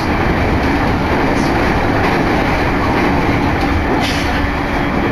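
Electric commuter train running between stations, heard from inside the carriage: a steady rumble of wheels on rails with a faint steady hum and a few light clicks.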